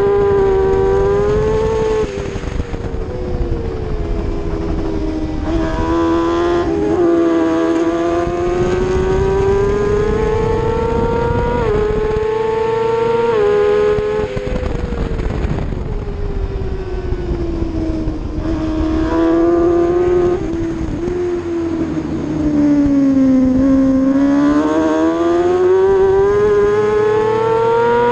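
600cc superbike engine at high revs under racing load. Its pitch climbs and drops sharply several times as it shifts up, and at times it sags slowly and climbs again.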